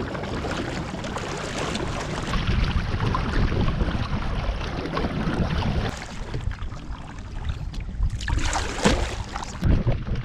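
Wind buffeting the microphone on a kayak on open water: a steady rushing rumble, with a stronger gust about eight seconds in.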